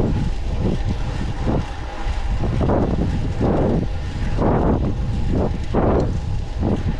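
Wind buffeting the microphone of a camera on a moving bicycle, a loud, deep rumble that swells and eases about once a second.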